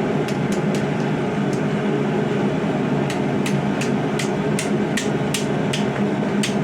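Hammer striking hot spring steel over the edge of an anvil, scrolling the end of a knife handle. A few scattered blows come in the first second or so, then steady strikes about three a second from around three seconds in, over a constant rushing background noise.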